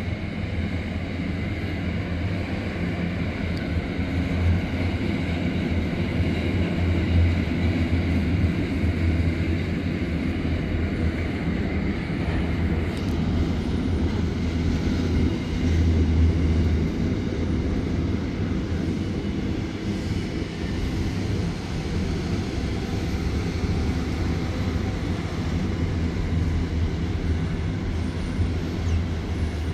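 Freight train's cement tank wagons and container wagons rolling past: a steady low rumble of steel wheels on rail, swelling a little about 16 seconds in.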